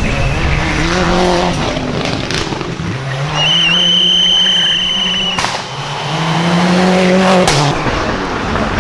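Rally car driven hard on a special stage, its engine revving up and dropping back through the gears. A high steady tyre squeal holds for about two seconds in the middle, and two sharp cracks come as the revs fall.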